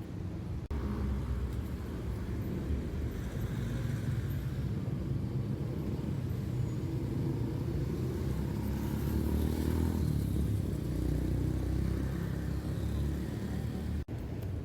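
Road traffic: a steady low rumble of passing cars and motorcycles, swelling a little around the middle of the shot.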